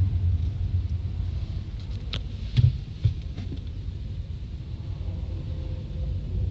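Car driving on smooth fresh asphalt, with low road and engine rumble inside the cabin. A couple of short knocks come about two and a half seconds in.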